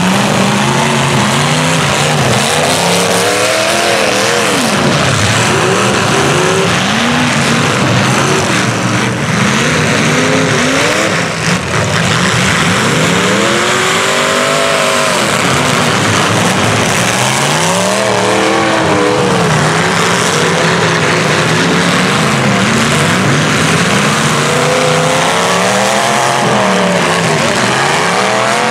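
Several demolition derby cars' engines revving hard at once, pitches climbing and falling over one another in a continuous loud din, with tires spinning in the mud.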